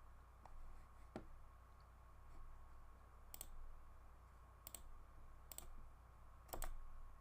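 A few sharp clicks at a computer, about six spread irregularly across several seconds, several of them in close pairs, over a faint steady electrical hum.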